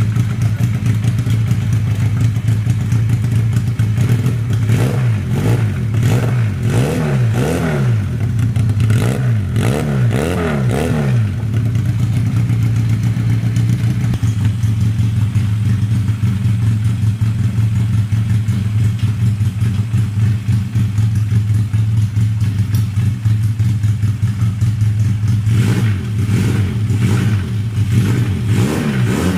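Homemade 250cc two-cylinder motorcycle engine, built up from a Honda Wave single, running on its first test run. It idles steadily and is revved up and down several times a few seconds in, settles back to idle, then is revved again near the end.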